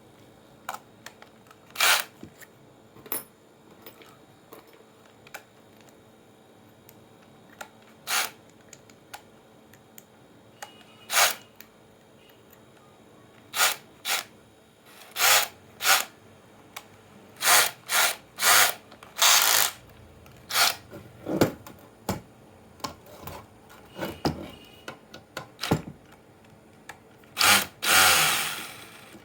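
A small power tool running in many short bursts, stopping and starting at uneven intervals, with one longer run near the end, as when screws are driven out of a computer power supply's case.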